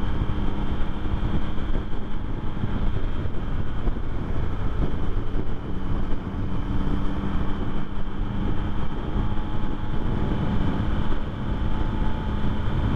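2024 Yamaha MT-09's inline-three engine and exhaust running steadily while the motorcycle is ridden at a cruise, with wind noise on the microphone.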